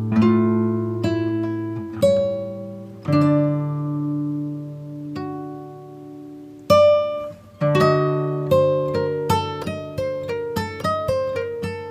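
Background music of acoustic guitar: slow plucked chords left to ring, then from about eight seconds in a quicker run of picked single notes.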